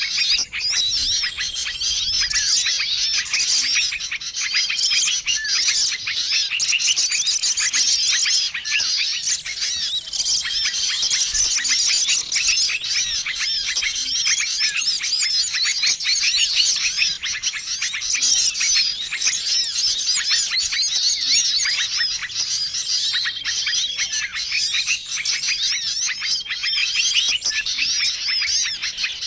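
Bird-lure recording of many small songbirds chirping and twittering at once: a busy, unbroken chorus of high calls, with a short flat whistle repeating every few seconds.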